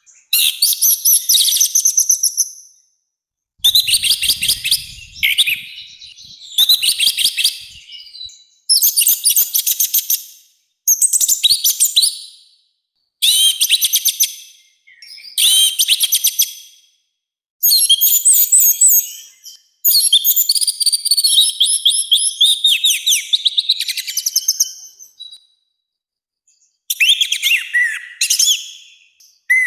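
Orange-headed thrush singing a loud, harsh, high-pitched song in rapid-fire phrases of one to two seconds, broken by short pauses, with a longer pause near the end.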